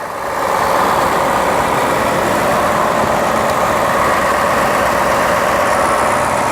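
Ford F-150 V8 engine idling steadily with the hood open, heard from the engine bay. The sound grows louder about half a second in and then holds even.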